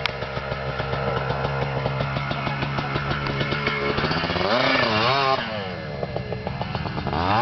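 Small motorcycle engine running at a steady speed, then revved up and down several times from about four seconds in, dropping back and climbing again near the end.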